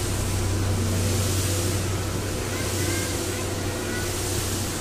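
Train running along the track, heard from inside a passenger coach of Chichibu Railway's SL Paleo Express: a steady rumble with a low hum and an even rushing noise.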